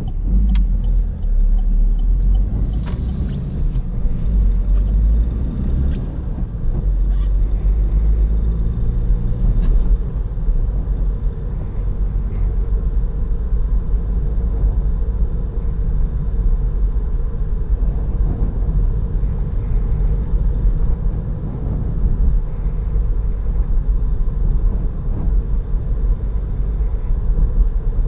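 Opel Astra 1.6 BiTurbo CDTI four-cylinder diesel being driven, with a steady low rumble of engine and road noise heard from inside the car. A few light clicks sound in the first ten seconds.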